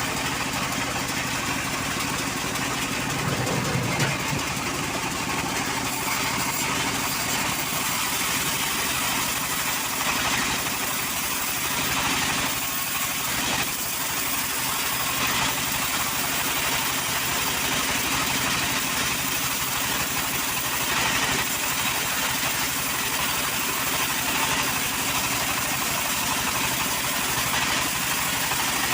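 Engine running steadily at an even speed, with no revving.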